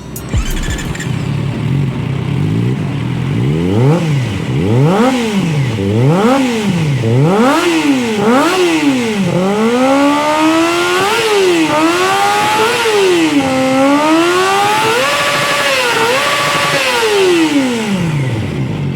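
Kawasaki ZX25R's inline four-cylinder engine revved through a slip-on exhaust with a GP-style tip: idling at first, then blipped up and dropping back about once a second, then held at higher revs with smaller rises and falls before sinking back to idle near the end.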